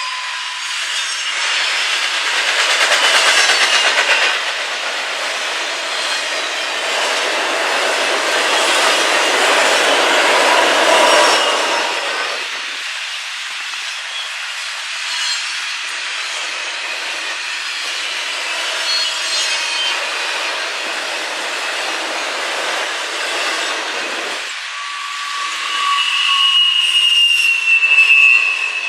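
Train cars rolling past on the rails, a steady rushing of wheels on track, with high wheel squeal setting in near the end.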